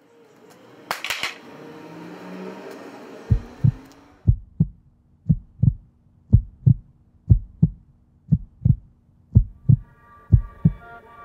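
Heartbeat sound effect: a low double thump, lub-dub, repeating about once a second from about three seconds in. Before it comes a rushing noise with a sharp clatter about a second in, and a held musical chord comes in near the end.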